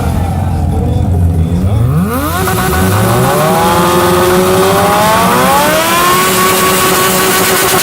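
Motorcycle engine with an open exhaust revved hard: the pitch dips, then climbs steadily for several seconds, then holds at high revs against the rev limiter.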